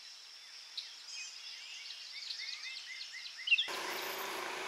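Small birds chirping in a quick run of short high notes. Near the end this breaks off into a steady wash of outdoor noise with a low hum.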